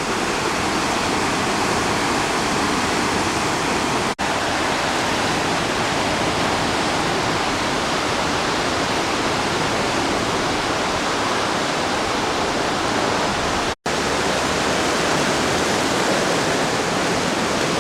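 River Driva in heavy flood, about 1000 cubic metres a second, rushing steadily. The sound breaks off for an instant twice, briefly about four seconds in and fully near fourteen seconds.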